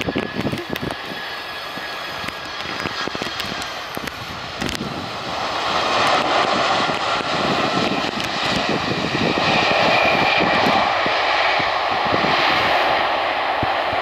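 Jet airliner engines heard as a steady rushing noise that grows louder about five seconds in as the aircraft comes closer.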